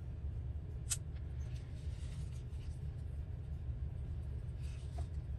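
A steady low background hum, with a single sharp tap about a second in and faint rustling of paper scraps being handled near the end.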